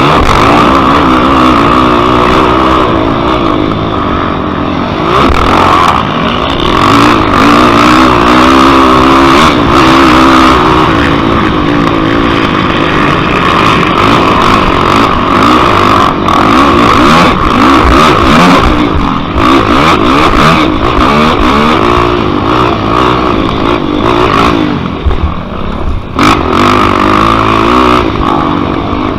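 Yamaha YFZ quad's single-cylinder four-stroke engine racing, revving up and down over and over as it accelerates and shifts, loud.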